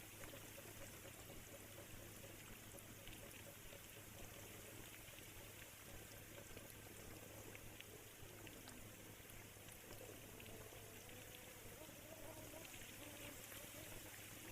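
Faint steady rain with scattered raindrop ticks, over a steady low hum. Faint wavering tones come and go over the second half.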